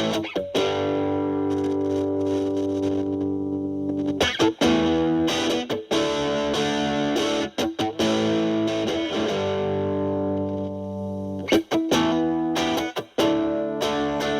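Fender Stratocaster electric guitar through a Boss DS-2 Turbo Distortion pedal, turbo mode off and distortion knob at about ten o'clock, into a Marshall Valvestate amp's clean channel. Distorted chords are struck and left ringing for several seconds, then short choppy stabs follow near the end.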